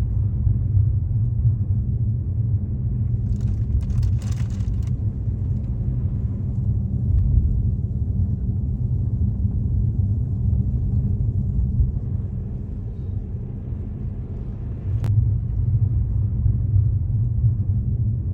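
Car driving on a mountain road, a steady low rumble of engine and tyres. A brief hiss rises about four seconds in, and there is a single click later on.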